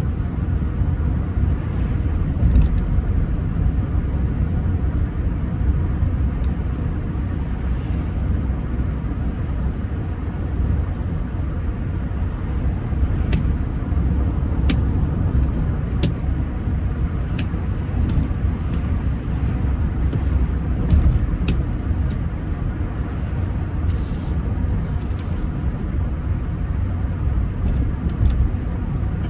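Steady low rumble of road and engine noise from a Rolls-Royce Silver Spirit III under way, heard from inside the cabin, with a few faint clicks in the middle.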